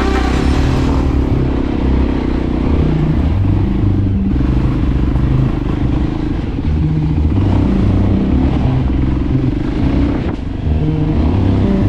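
Voge 300 Rally motorcycle's single-cylinder engine running while riding, its revs stepping up and down as the throttle and gears change.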